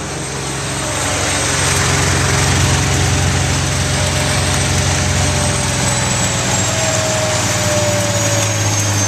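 Zanussi washing machine on a fast spin: a loud, steady motor hum and the rush of the spinning drum, building over the first couple of seconds. In the second half a high whine slowly falls in pitch.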